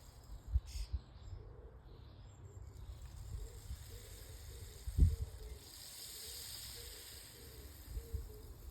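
Rainstick being tipped, its beads trickling down inside as a soft high hiss that swells a little after the middle. Low thumps come through, the loudest about five seconds in.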